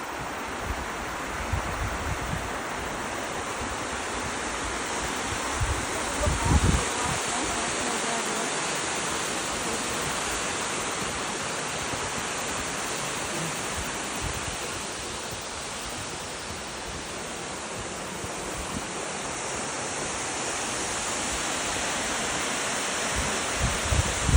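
Steady rush of running water, like a waterfall or fast stream. A few low thuds break in about 2 and 6 seconds in and again near the end, the loudest around 6 seconds.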